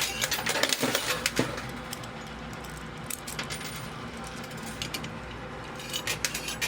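Quarters clinking and dropping in a coin pusher machine. There is a quick run of clinks in the first second and a half, then mostly the machine's steady hum with scattered clinks, and the clinks pick up again near the end.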